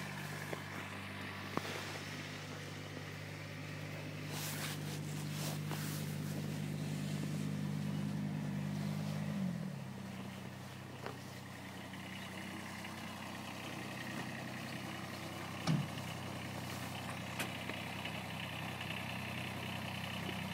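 A vehicle engine idling steadily; about halfway through its idle speed drops to a lower, steady hum. A few short knocks are heard over it.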